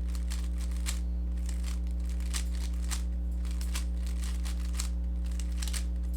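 Rubik's cube being turned quickly by hand: irregular clicking of the layers, several turns a second in short runs, over a steady low electrical hum.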